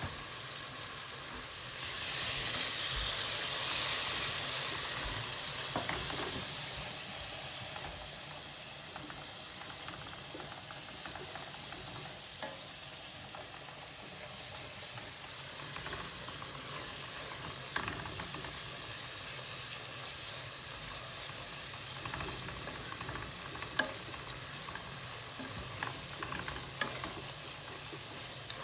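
Curry masala of onion, ginger, garlic, yogurt and spices frying and sizzling in a pan while it is stirred, with now and then a sharp click of the spoon against the pan. The sizzle surges louder about two seconds in for several seconds, then settles to a steady hiss.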